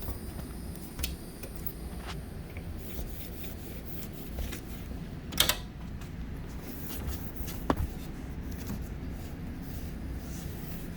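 Scattered clicks and knocks of objects being handled, the loudest about five and a half seconds in and another near eight seconds, over a steady low hum.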